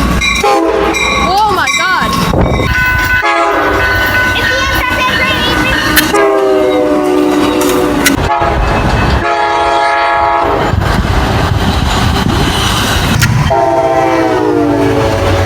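Diesel locomotive air horns sounding a series of chord blasts, several in a row, over the rumble and rail noise of passing trains.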